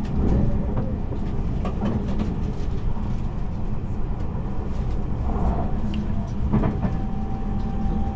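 Cabin noise inside a moving Tobu Spacia X limited express train: a steady low rumble from the running gear with scattered light clicks. A steady whine comes in about seven seconds in.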